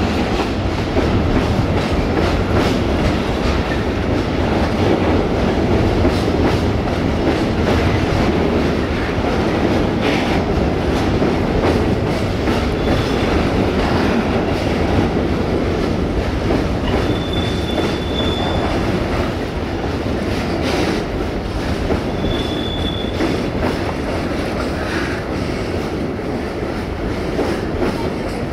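Covered freight wagons rolling past with steady rumble and clickety-clack of wheels over the rail joints. Brief high wheel squeals come several times in the second half as the wagons take the curve.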